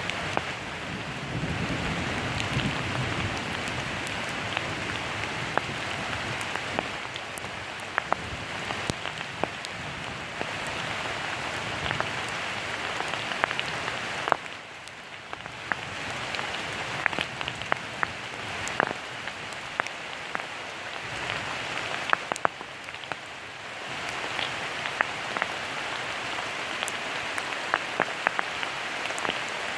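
Steady rain falling, with many single drops ticking sharply close by over the hiss. The hiss drops away for a moment about halfway through.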